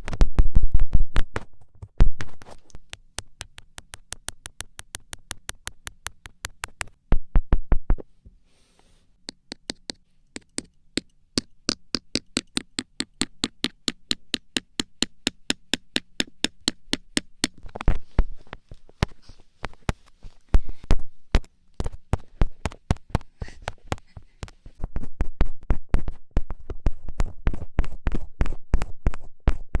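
Long runs of rapid fingertip taps or pokes, each a sharp click, about four a second, with a short break about eight seconds in and denser, louder tapping in the last few seconds.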